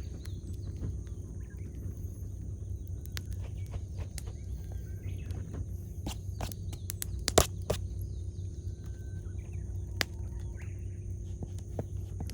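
Wood bonfire crackling, with scattered sharp pops and one louder pop about seven seconds in. Faint bird calls come through now and then.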